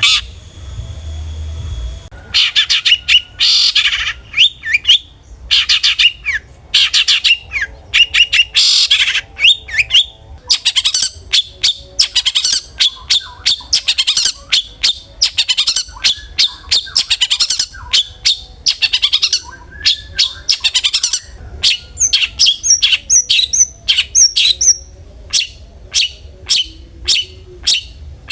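Long-tailed shrike (cendet) calling in loud bursts of rapid, varied notes. It ends in an even run of short repeated notes, about three or four a second. The first two seconds hold a steady hum before the calling starts.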